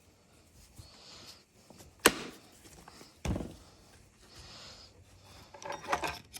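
Knocks and clicks of tools and parts being handled: a sharp knock about two seconds in, a dull thud a second later, then a quick run of small clicks and another knock near the end.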